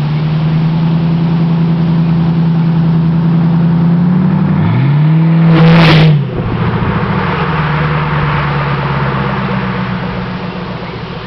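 Ford Crown Victoria P71's 4.6-litre V8 running with no mufflers, a loud, steady exhaust drone. The pitch rises as it accelerates about five seconds in and peaks sharply around six seconds in. A rushing exhaust noise then fades toward the end.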